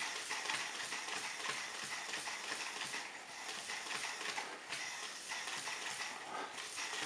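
Homemade cardboard rotary vacuum motor running on suction: air hissing through it with a fast, continuous rattling clatter.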